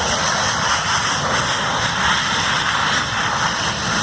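Panavia Tornado's twin RB199 turbofan engines running loud and steady, with thrust reversers deployed to slow the jet on its landing roll.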